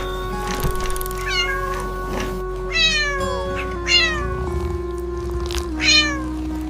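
A cat meowing about four times, each meow falling in pitch, over background music with long held notes.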